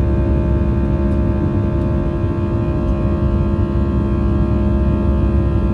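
Cabin noise of an Airbus A320-214 with its CFM56 engines running: a steady, unchanging low rumble with a constant hum of several steady tones over it.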